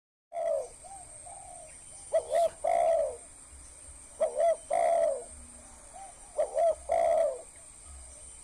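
Spotted dove cooing: an opening note, then three phrases, each a quick double note followed by a longer, drawn-out coo.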